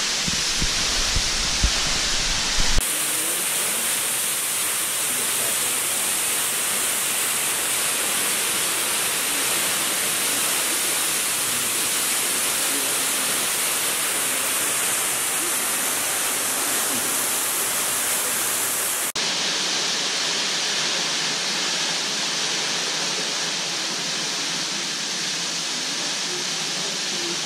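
Waterfall: a steady rush of falling water that changes abruptly about three seconds in and again near the nineteenth second, as between separate shots, with a few low thumps in the first seconds.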